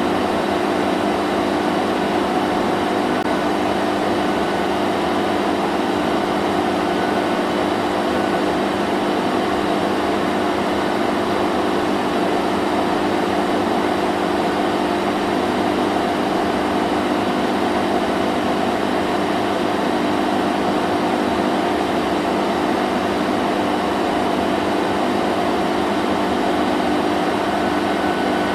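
Vacuum cleaner running steadily: an even motor hum with a rushing hiss of air, unchanging throughout.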